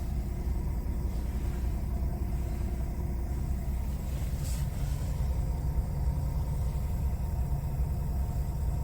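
Scania G410's 13-litre straight-six diesel engine idling steadily, with a brief hiss about four and a half seconds in.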